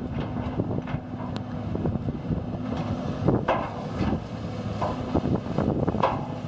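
Hydraulic excavator's diesel engine running steadily, with several sharp metallic knocks and clanks over it, the strongest about three and a half seconds in and again near six seconds.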